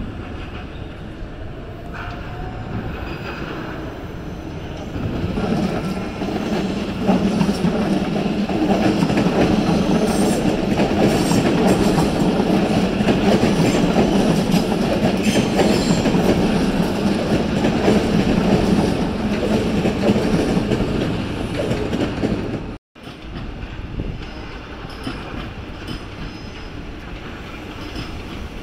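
Queensland Rail passenger train running through the station rail corridor. Its rumble builds from about five seconds in, stays loud for around fifteen seconds, then cuts off abruptly, leaving a quieter background rumble.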